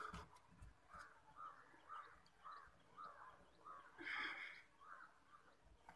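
Faint repeated short bird calls, about two a second, with a louder call about four seconds in.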